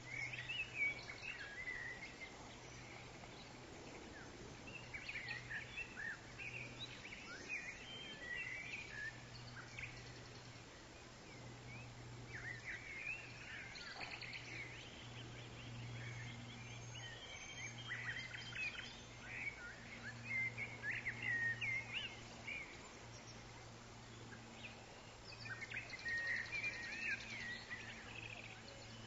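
Forest birds chirping in several bursts of quick, short calls over a steady low hum.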